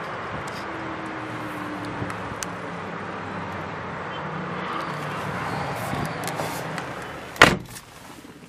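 A 2006 Volvo XC90's 2.5-litre turbocharged engine idling steadily, then a single loud car-door slam about seven and a half seconds in.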